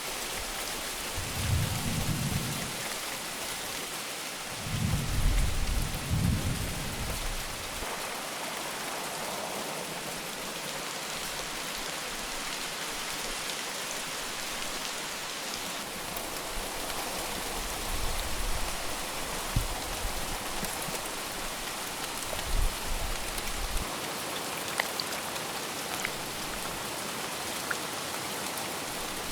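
Steady heavy rain, with low rumbles of thunder: two stronger ones in the first several seconds and fainter ones later.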